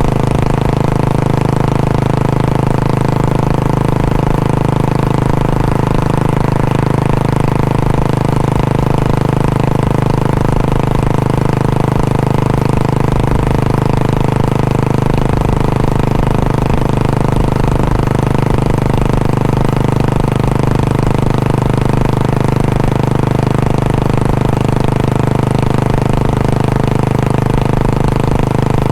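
Royal Enfield Bullet 500's single-cylinder four-stroke engine and exhaust running steadily at an even speed, with no revving.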